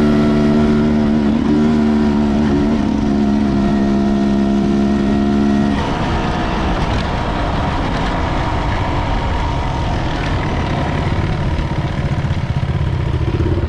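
Enduro motorcycle engine held at steady revs, then easing off about six seconds in to a lower, rougher-running sound with more noise around it.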